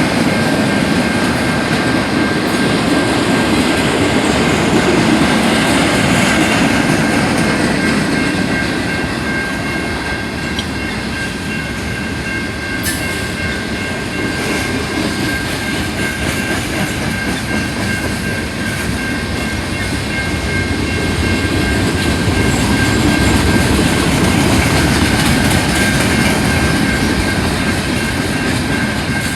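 Train cars rolling past on the track: a loud, steady rumble with clacking of the wheels over the rail joints and a faint steady high whine from the wheels.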